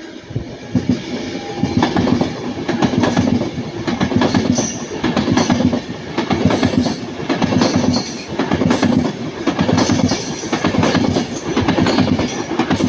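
Class 390 Pendolino electric train passing at speed, its wheels making a steady, rhythmic clatter over the rail joints that swells and fades with each passing bogie.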